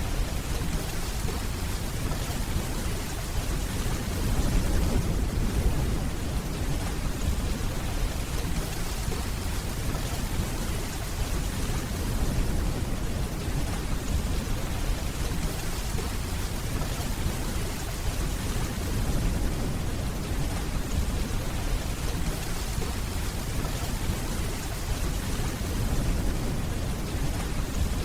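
Steady heavy rainfall with the low rumble of distant rolling thunder, swelling gently a few times.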